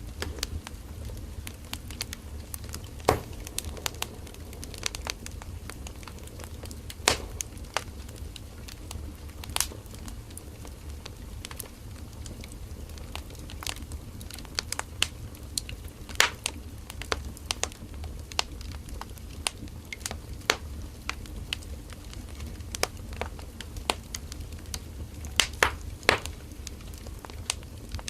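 Firewood burning in an open fire, crackling with irregular sharp pops and snaps over a steady low rumble of the flames; a few pops stand out much louder than the rest.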